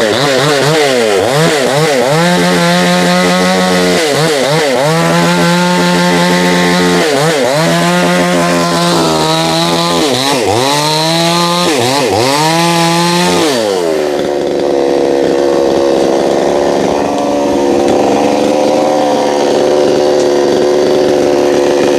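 Two-stroke chainsaw cutting wood, its engine pitch sagging under load and climbing back again and again. About fourteen seconds in it settles to a steadier, lower running speed.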